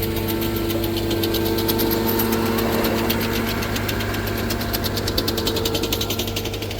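The 111 HP diesel engine of an ASV RT-110 track loader runs steadily under load while the machine carries a log near its lifting limit. A fast, even rattling clatter sits over the engine hum.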